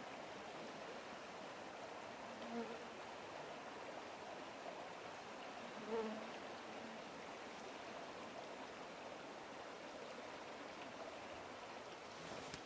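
Faint, steady rush of flowing water, with two brief low sounds about two and a half and six seconds in.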